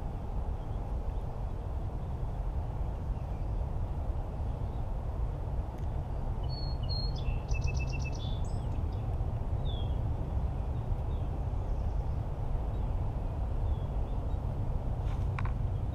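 A bird calls briefly about halfway through, a few short high chirps and a quick trill, over a steady low rumble of outdoor noise. There is a single faint click near the end.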